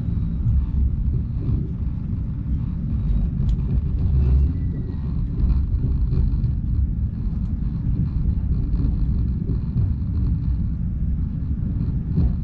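Passenger train running, heard from inside the carriage: a steady low rumble of wheels on track with faint rattles.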